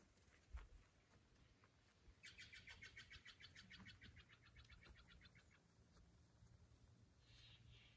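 A faint bird trill: a rapid, even run of about two dozen short high chirps, roughly seven a second, fading away over about three seconds.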